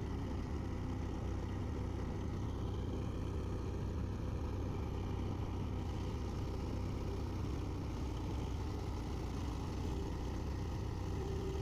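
Heavy vehicle engine running steadily during a pull to free tractors stuck in mud, a low even rumble.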